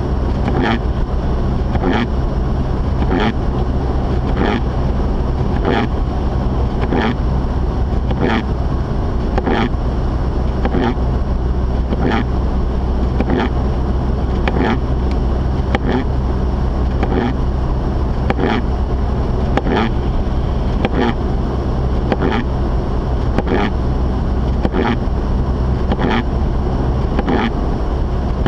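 Mazda RX-8 heard from inside the cabin while driving: a steady low drone of the rotary engine and the road. Over it comes a regular short swishing stroke about every 0.8 seconds.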